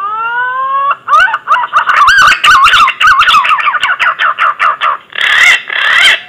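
Green pigeon (punai) song used as a hunting lure: one long rising whistle, then a fast run of wavering whistled notes, ending in two louder, rougher notes.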